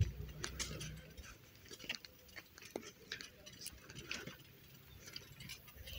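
Faint, irregular clicking and ticking, the clicks scattered unevenly rather than keeping a clock's beat.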